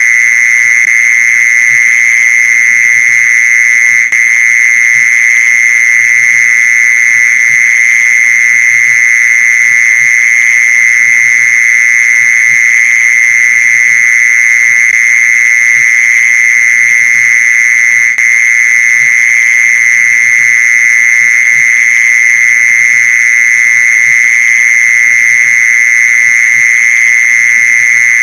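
Mole cricket calling song: one loud, unbroken trill held at a steady high pitch, with two momentary dropouts. It is the male's call, played to lure mole crickets.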